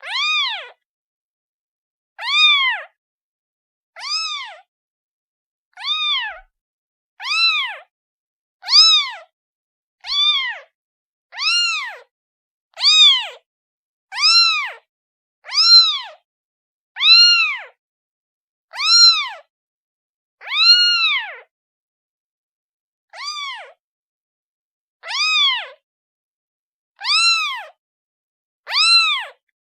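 Kitten meowing over and over, about one call every second and a half, each call short and high, rising then falling in pitch: a kitten calling for its mother.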